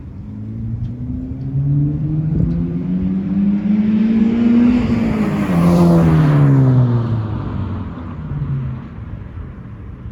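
Subaru BRZ with a muffler delete accelerating past, its flat-four exhaust note climbing in pitch as it approaches. It is loudest as the car passes about halfway through, then drops in pitch and fades away.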